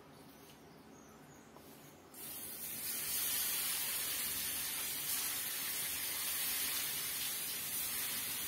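Spice-marinated prawns sizzling in hot oil in a pan: the hiss starts about two seconds in as they go into the oil, rises quickly and then holds steady.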